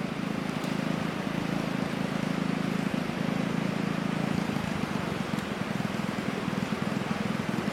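A small engine running steadily at an even speed, under a constant hiss.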